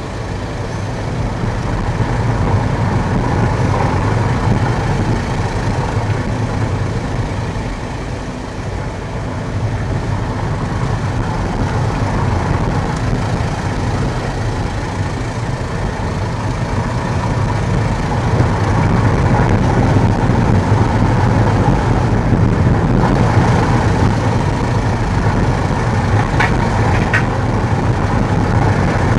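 Road and engine noise inside a moving car: a steady low rumble that eases off briefly and then grows stronger as it drives on. Near the end there are two short, sharp high sounds.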